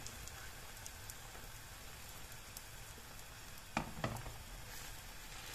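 Eggs and green onions frying in oil in a non-stick pan: a steady soft sizzle. A couple of light clicks of a metal fork against the pan come about two-thirds of the way through.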